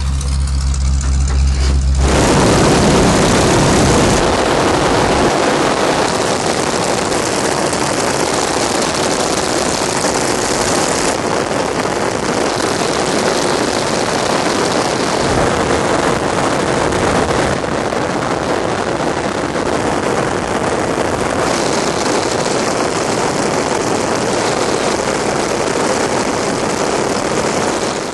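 Vintage propeller aircraft's piston engine running up close, a loud, steady din. It opens with a low, even hum and then changes character abruptly several times.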